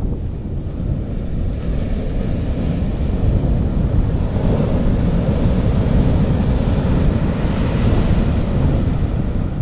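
Sea waves washing up on a beach, one wave swelling and fading over several seconds, with a heavy rumble of wind on the microphone.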